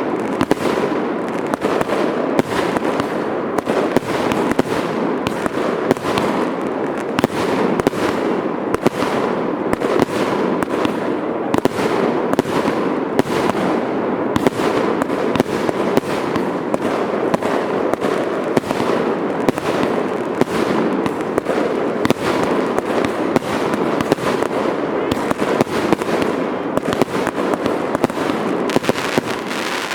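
Fireworks going off in a dense, continuous barrage, several sharp bangs a second over a steady rumbling haze of explosions.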